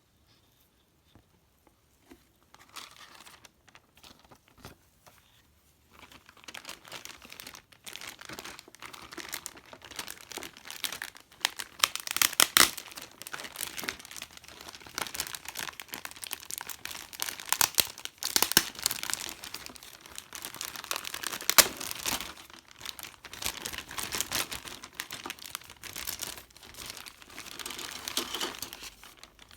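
Crinkling plastic packaging being handled, faint at first and then steady, irregular crackling from about six seconds in, with sharper crackles at times: the plastic bag around a model kit's sprues being opened and the parts taken out.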